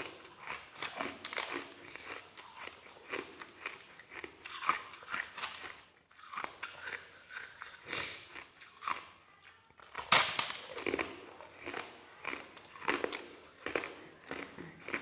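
Soft crushed ice being bitten and chewed, a run of irregular crunches with a brief pause about six seconds in and the loudest crunch about ten seconds in.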